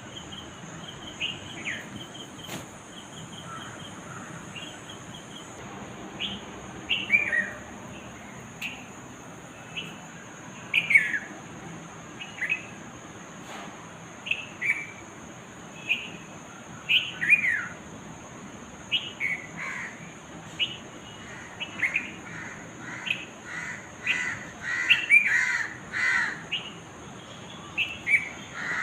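Several birds calling: short chirps and quick downward-sweeping calls, sparse at first and crowding together in the last third, over a steady high-pitched whine.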